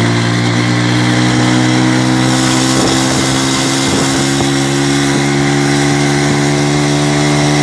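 Motorcycle engine running at a steady, even speed with no change in pitch.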